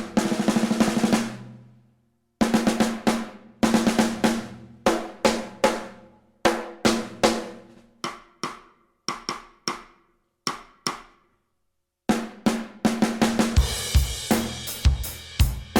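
SJC Custom Drums Alpha 6.5x14 aluminum snare with a Remo Powerstroke 3 head. It is played as a roll that rings out, then as groups of single cracks separated by short pauses, each hit decaying quickly. Near the end the full kit comes in, with bass drum and cymbals under the snare.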